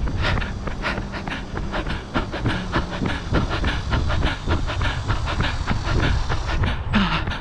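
A runner's footsteps striking pavement, about three strides a second, with hard, hissing breaths over a steady low rumble.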